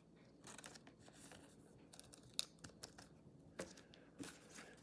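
Faint rustling and a few soft clicks of Pokémon trading cards and a plastic penny sleeve being handled.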